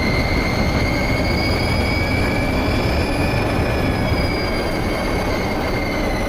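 London Underground Circle Line train running between stations, heard on board: a deep rumble under a high, steady whine with overtones that rises slightly and then eases a little near the end.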